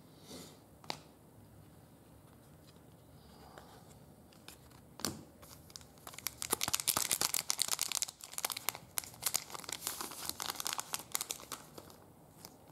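A trading card pack's wrapper being torn open and crinkled: a few light clicks first, then dense crackling for about six seconds in the second half.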